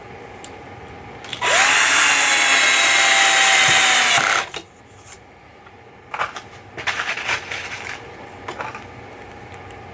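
A power drill runs for about three seconds, its pitch rising as it spins up and then sagging slightly before it stops. A few light clicks and rattles of handled parts follow.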